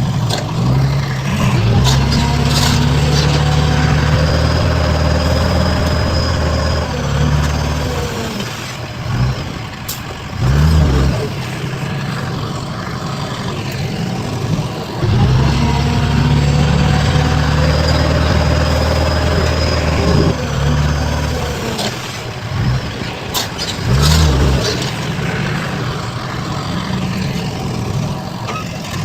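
Heavy diesel engine of construction machinery working under load, easing off, then revving briefly; the same pattern comes round twice, with a faint high whine riding over the engine in its loud spells.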